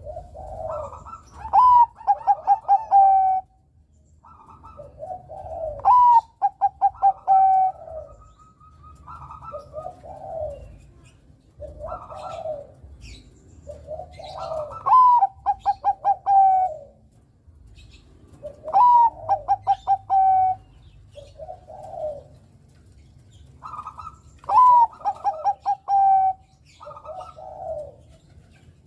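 Zebra dove of the Perkutut Bangkok contest strain singing its cooing song. Phrases come every few seconds: a soft low coo, then a higher note and a quick rolling run of pulses.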